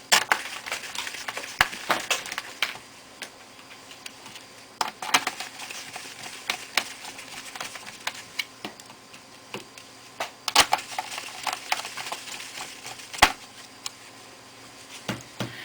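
Screws being set and driven into a laptop's plastic case with a small screwdriver: irregular clicks, taps and light clatter.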